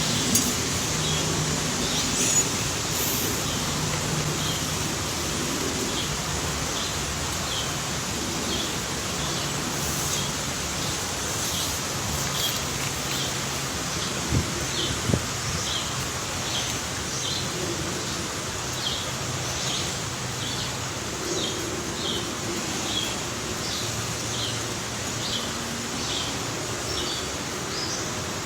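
A bird calling with short, high chirps repeated about one and a half to two times a second over a steady outdoor hiss.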